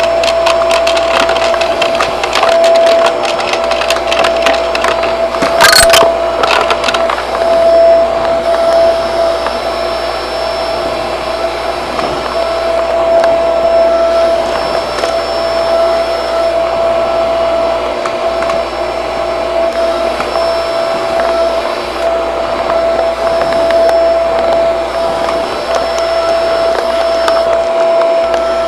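Shark vacuum cleaner running with a steady whine while picking up debris that crackles and rattles through it, densest in the first several seconds, with a sharp clack about six seconds in.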